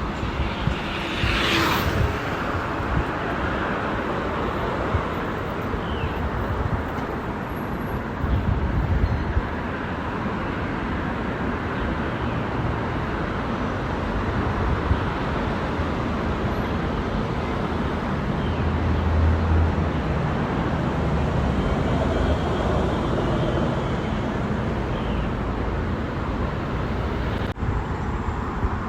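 Steady road and traffic noise, with vehicles passing and a few low rumbling swells, heard from a moving bicycle.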